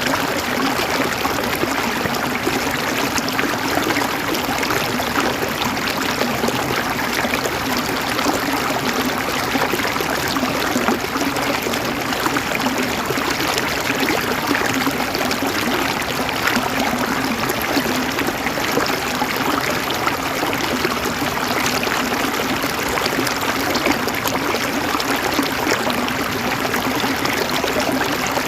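River water flowing over stones, a steady rushing and babbling with no breaks.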